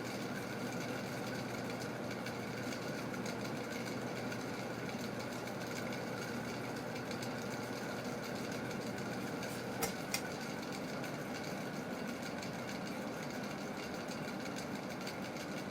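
Bladeless ceiling fan motor with a cast iron spinner running steadily in reverse, its bearings a little noisy because they still need working in. Two sharp clicks about ten seconds in.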